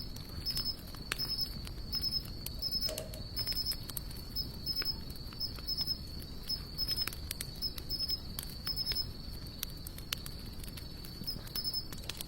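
A hardwood campfire of sawtooth oak and mixed hardwood logs crackling, with scattered sharp pops. Behind it, insects keep up a steady high trill, with chirps pulsing a little more than once a second.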